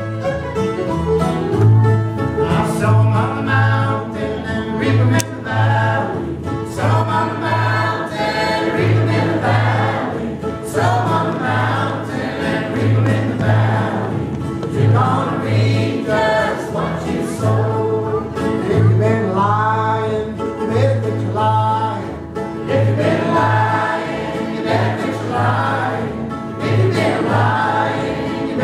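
Old-time string band playing a song with sung vocals, seemingly several voices in harmony, over string accompaniment and a steady plucked bass line.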